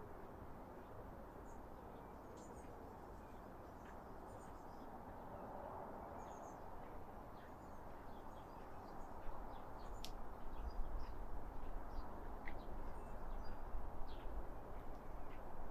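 Small songbirds giving scattered short, high chirps over a steady outdoor hiss. A low rumble grows louder from about halfway through, and there is a single sharp click about ten seconds in.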